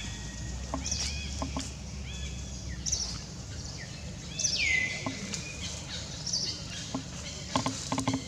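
Birds chirping in the background with repeated short, arched chirps. About four and a half seconds in, one louder call falls steeply in pitch and then holds level. A few soft ticks and rustles come through as well.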